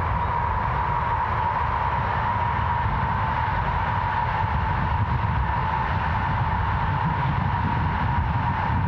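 ICE high-speed electric train passing at speed: a steady rushing noise over a low rumble, with a steady high whine running through it.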